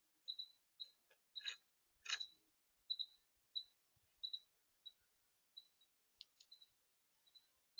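A small bird giving short, high chip notes at a steady pace of about two a second, with a few sharp clicks in the first half, such as a bill pecking at a feeder.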